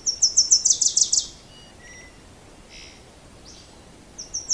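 Bird song: a fast run of short, high chirps, about six a second, for the first second and a half. A few soft scattered calls follow, and another run of chirps starts near the end.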